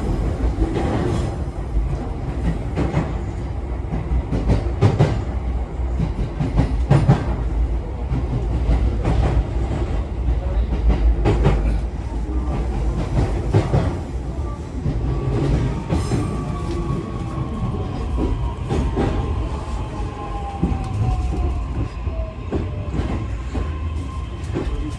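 Running sound of a JR East E131-1000 series electric train heard from inside: a steady low rumble with the wheels clicking sharply over rail joints. In the second half a thin electric whine from the traction equipment falls slowly in pitch as the train slows.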